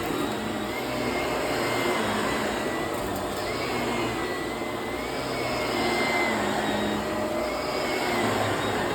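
Vacuum cleaner running on carpet, a steady motor noise with a high whine that rises and falls slightly every second or two.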